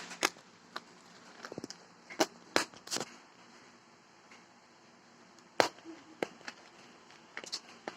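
Irregular sharp clicks and taps, a dozen or so scattered through, from a cat playing with something.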